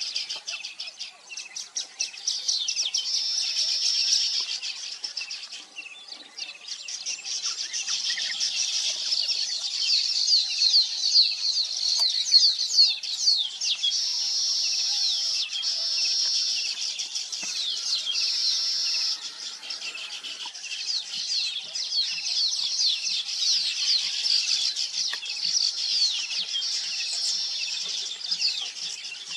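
A colony of weaver birds chattering together: many rapid, overlapping chirps and twittering calls, easing off briefly about six seconds in before swelling again.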